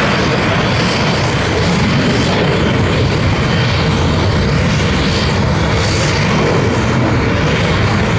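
Steady jet roar of a MiG-17 (Polish-built Lim-5) flying its display, its single centrifugal-flow turbojet running, with a thin high whistle held above the roar.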